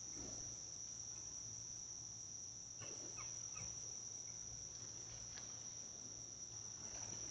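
Crickets chirping in a continuous high steady trill, with a few faint short chirps from another creature about three seconds in.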